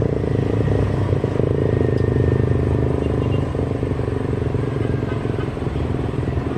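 Steady engine rumble, easing slightly about halfway through.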